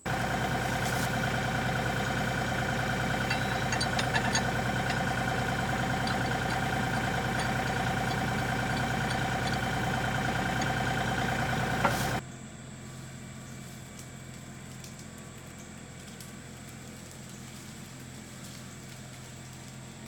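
LS XR3135 tractor's 35 hp diesel engine running steadily. It is loud for about twelve seconds, then after an abrupt cut it is heard more faintly for the rest.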